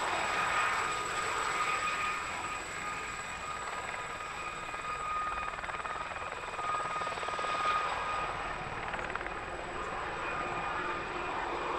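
Westland Gazelle helicopters flying a display: a steady rushing engine and rotor sound with a high whine from the fenestron tail rotor that fades in and out.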